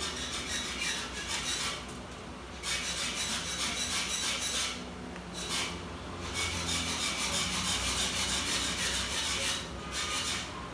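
Rapid back-and-forth scraping strokes on a hard surface, in several runs of a few seconds each with short pauses between.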